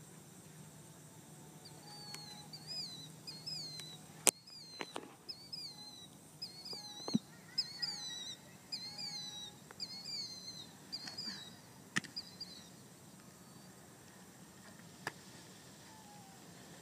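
A songbird singing a fast, repeated phrase of short down-slurred whistles, two or three a second, for about ten seconds. A few sharp knocks cut through it, the loudest about four seconds in.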